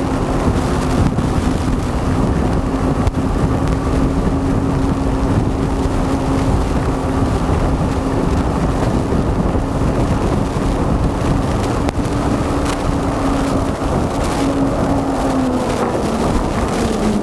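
Motorcycle engine running at steady speed under heavy wind noise on a helmet or action camera. Its note drops from about fifteen seconds in as the bike slows.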